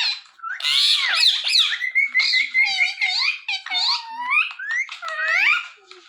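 Indian ringneck parrot chattering, a quick run of short whistled notes that swoop up and down in pitch, one held briefly on a steady high tone.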